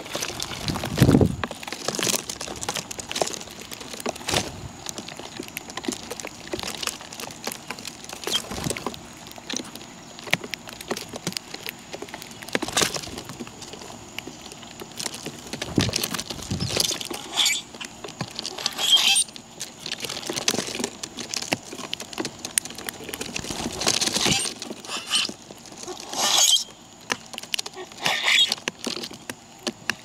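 Birds feeding: irregular small pecking taps and rustles, with a few brief high chirps.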